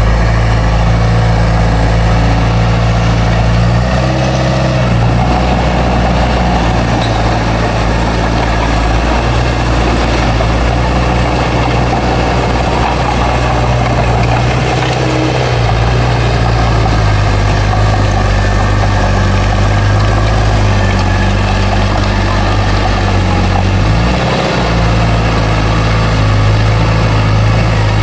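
Bulldozer's heavy diesel engine running steadily, its pitch dipping and recovering three times as the load changes.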